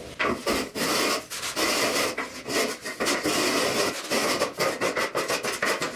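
Wet tile adhesive being scraped and levelled across a floor screed with a rule, in repeated rasping strokes with short pauses between them.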